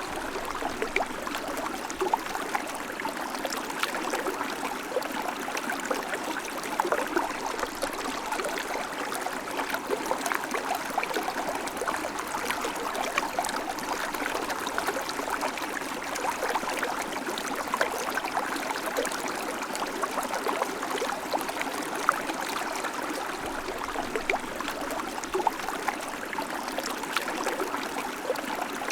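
River water flowing steadily over stones, a continuous rush with many small bubbling splashes.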